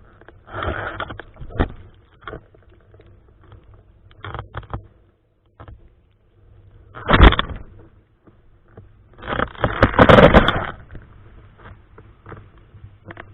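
Irregular bursts of rushing noise from strong typhoon wind gusting over the microphone. There are brief gusts near the start, a sharp loud one about seven seconds in, and the longest and loudest one between about nine and eleven seconds.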